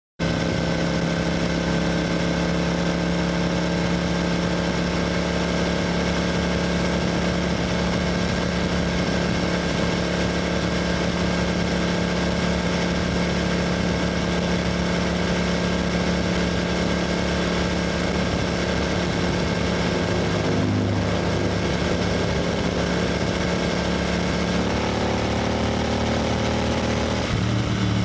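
Royal Enfield GT 650's 648 cc parallel-twin engine running steadily at highway cruising speed. Its note creeps up slowly, wavers briefly about two-thirds of the way in, and rises again near the end.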